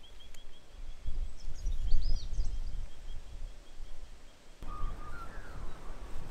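Wild birds calling: one bird repeats a short, high, even note about four or five times a second while other chirps sound over it, against a low rumble. About four and a half seconds in, the background changes suddenly and a lower, whistled bird call starts.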